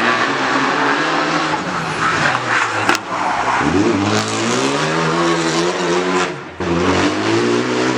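Rally car engine running hard past the spectators, with a sharp pop about three seconds in. The revs then rise steadily under acceleration, break off briefly at a gear change past six seconds, and pick up again.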